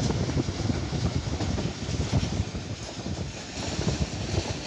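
Pakistan Railways passenger train running on the track, heard from inside a coach at the window: a steady low rumble of wheels on rails with irregular clattering knocks, and wind on the microphone.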